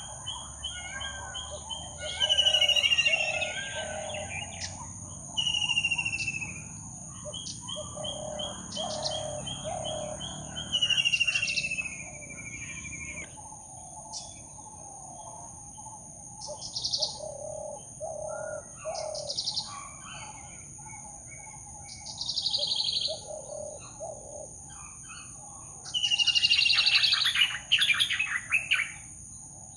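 Forest birdsong: one bird repeats a loud falling whistle about every three seconds over lower cooing calls and a steady high-pitched drone, with a burst of loud chattering calls near the end.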